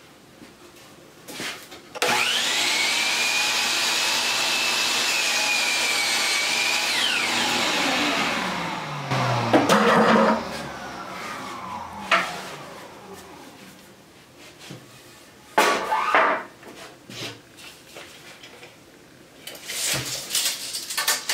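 An electric power saw cutting hard maple handles to length: the motor starts about two seconds in, runs at a steady whine for about five seconds, then winds down. Knocks and rattles of the wood pieces being handled follow.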